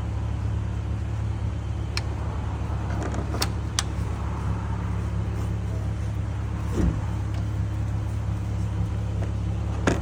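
Car engine idling steadily, with a few light metallic clicks.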